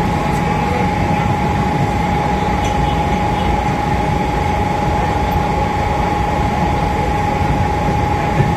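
Mumbai suburban local electric train running at speed, heard from inside the coach: a steady, loud rumble of wheels on track with a constant high whine through it.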